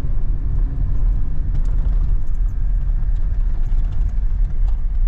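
Jeep Gladiator Rubicon driving, heard from inside the cab: a steady low rumble of engine and tyres with light rattles and clicks.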